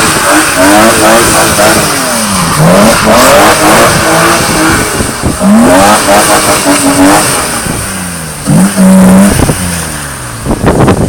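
Car engine revving hard up and down over and over as the car is spun in donuts on a wet surface. A steady held rev comes about nine seconds in, then the revs drop away near the end.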